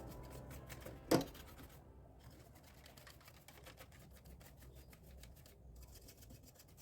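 Faint scratching and rubbing with a single sharp knock about a second in, then near silence with faint ticks.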